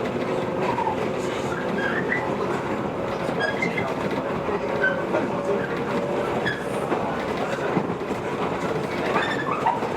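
JR 115 series electric multiple unit running between stations, heard from inside the car: a steady rumble of wheels on rail with a low motor hum, short faint squeaks and a few clicks from the rail joints.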